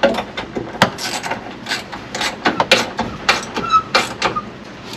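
Irregular clicks, taps and rustling of parts being handled and fitted by hand on a truck door, with a brief high squeak a little under four seconds in.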